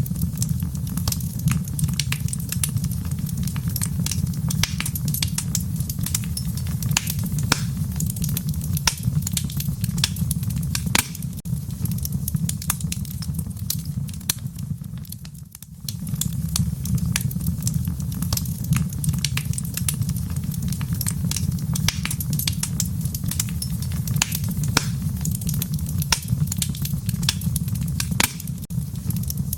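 Wood fire burning in a fireplace: many sharp crackles and pops over a steady low rumble. The sound dips briefly about halfway through.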